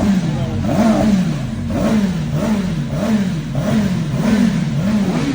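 CFMOTO 750 SR-S sportbike engine on its stock exhaust, revved in a string of quick throttle blips. The revs rise and drop back again and again, about once or twice a second.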